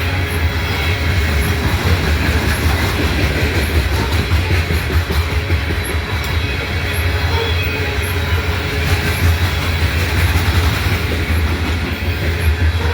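Freight train cars rolling past on steel rails: a steady, loud rolling noise with wheel clatter.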